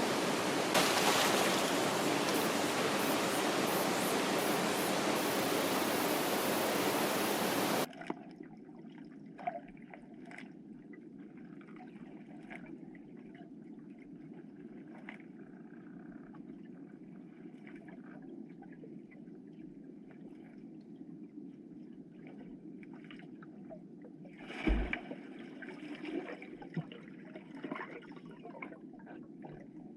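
Mountain stream water rushing loudly. After about eight seconds it cuts off suddenly to a much quieter, steady flow with scattered small splashes and clicks, and a thump near the end.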